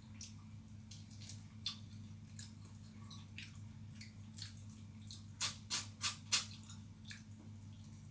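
A person chewing and smacking their lips while eating pigeon: a run of short wet mouth clicks, with four louder smacks in quick succession a little past halfway, over a low steady hum.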